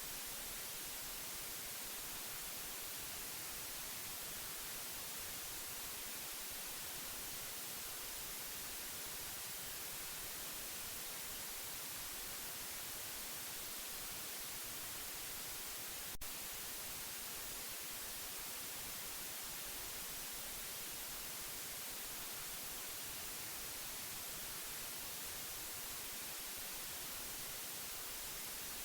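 Steady white-noise hiss for baby sleep, even and unchanging, weighted toward the treble. A single brief click sounds a little past halfway.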